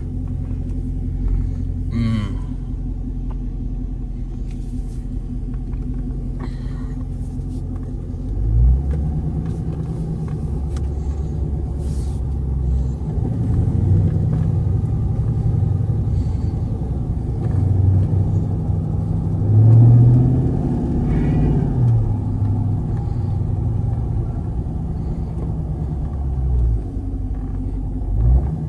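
A 2022 Dodge Scat Pack Widebody's 6.4-litre HEMI V8 idles with a steady low rumble. From about eight seconds in, its engine speed rises and falls again and again.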